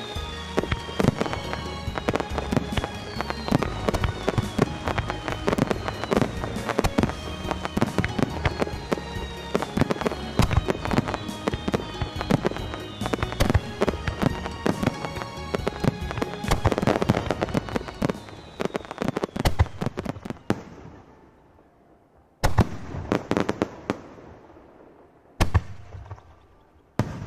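Fireworks display: a dense barrage of rapid firework bursts and crackling that thins out about two-thirds through, followed by three single loud shell bursts with echoing tails.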